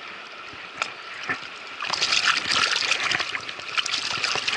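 Water splashing and sloshing around a hooked trout being played in to hand. It is quieter with a few sharp splats at first, then from about two seconds in turns into louder, continuous choppy splashing.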